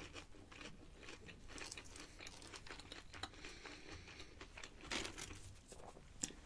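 Close-miked chewing of a crispy breaded fried chicken strip: faint crunching and wet mouth sounds, with one louder crunch about five seconds in.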